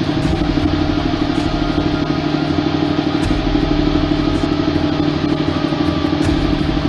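A loud, steady engine roar with a constant low-pitched hum underneath.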